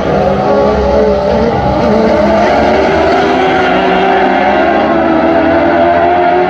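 Engines of several dwarf race cars running together on track, their overlapping engine notes shifting up and down in pitch.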